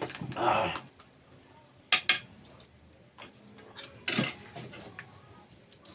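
Cutlery and dishes clinking during a meal: a short rattle, then two sharp clicks about two seconds in and another clink a little after four seconds.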